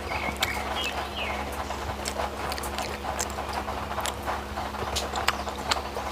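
Close-miked mouth sounds of someone eating: chewing and wet lip-smacking clicks at irregular intervals over a steady low hum.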